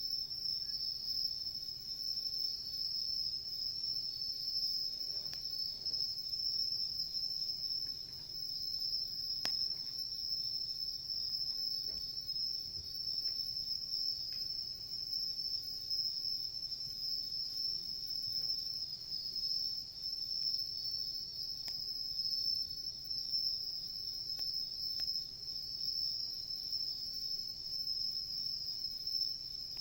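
Crickets or similar insects trilling in one steady, unbroken high-pitched chorus, with a few sharp, scattered crackles from a wood campfire.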